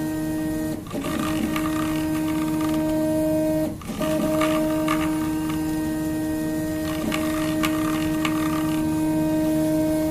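Prusa i3 MK2 3D printer running, its stepper motors giving a steady pitched whine. The whine breaks off briefly with a short glide in pitch about a second in and again near four seconds, as the moves change.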